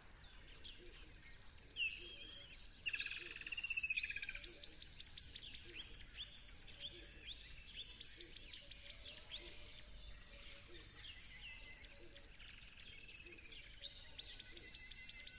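Birds chirping: quick runs of short, falling, high-pitched chirps come three times, with scattered calls from other birds in between.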